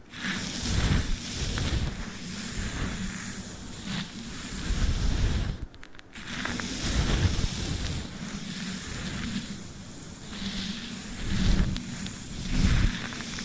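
Close-miked sticky tape being worked with a brush: irregular scratchy, crackling strokes, with a brief break about six seconds in.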